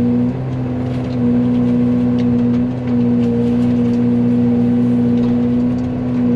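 Excavator engine and Fecon hydraulic forestry mulching head spooled up and running at full speed, a loud steady whine that dips briefly a few times, heard from inside the excavator's cab.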